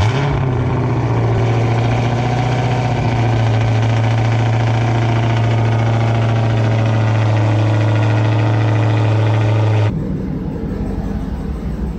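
Dodge Charger Hellcat's supercharged 6.2-litre Hemi V8, freshly started and idling loud and steady at the rear exhaust. About ten seconds in, the sound changes abruptly to a lower, duller rumble, the same engine idling as heard from inside the cabin.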